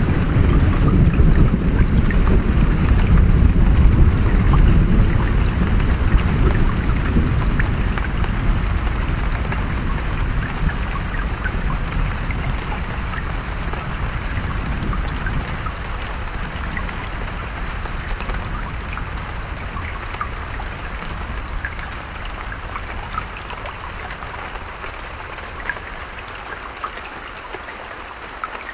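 Steady rain pattering, with a long roll of thunder that rumbles loudest in the first few seconds and slowly dies away, leaving the rain.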